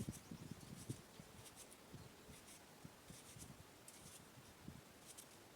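Faint, irregular scratching strokes and soft knocks from hand food preparation for papaya salad, with one sharp click at the start.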